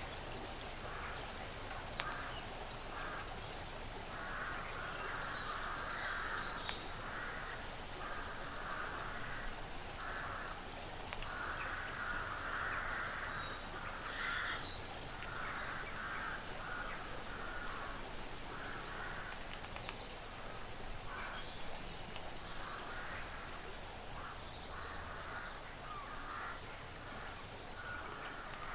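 Woodland ambience with small birds chirping and calling. Under them runs a repeated raspy sound in irregular bursts, with a few sharp clicks.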